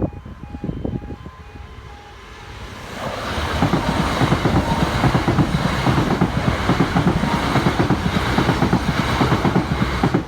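A train passing over the level crossing, its wheels rattling over the rails, building up about three seconds in and dropping away near the end. Through it the crossing's E2S alarms keep sounding their repeating tones.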